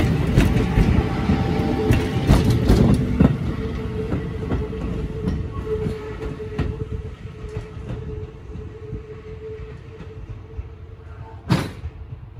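A Hakone Tozan Railway electric train passing close and pulling away: wheels clicking over rail joints with a steady whine, the sound fading as it goes. A single sharp click comes near the end.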